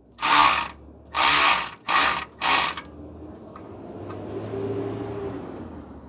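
A power tool run in four short trigger bursts, the last two shorter and closer together, tightening a worm gear clamp around a loose exhaust heat shield.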